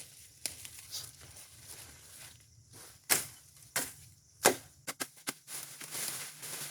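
A series of sharp knocks and cracks, the loudest three coming in quick succession around the middle, with lighter taps between them.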